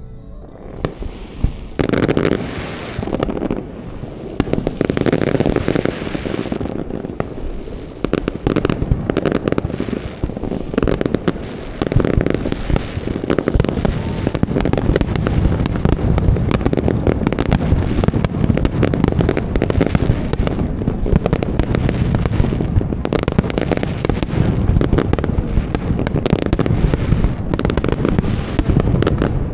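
Fireworks display: a rapid, continuous barrage of bursting shells and crackling. It grows denser and louder about twelve seconds in.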